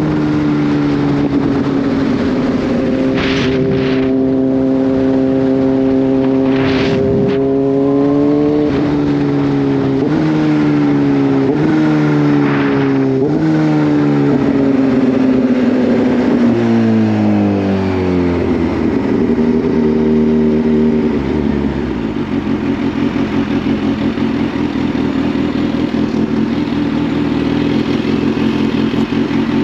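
Kawasaki Z H2's supercharged inline-four engine running at a steady cruise, then accelerating through several quick upshifts, the pitch climbing and dropping back at each shift. It then slows with falling downshifts and settles into a steady low, near-idle run.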